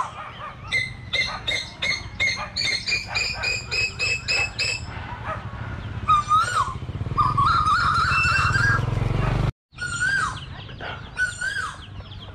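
Wild birds calling: a quick run of sharp, chattering notes for the first five seconds, then longer whistled calls, one held for about two seconds. A low rumble sits under them and swells near the middle, and the sound cuts out for a moment about halfway through.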